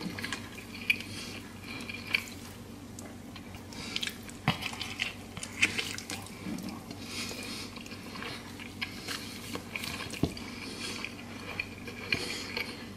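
A person chewing air-fried chicken with the mouth open, with irregular wet lip smacks and mouth clicks.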